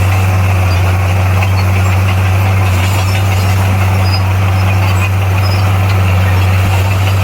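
Komatsu bulldozer's diesel engine running steadily with a deep, even drone that holds one pitch.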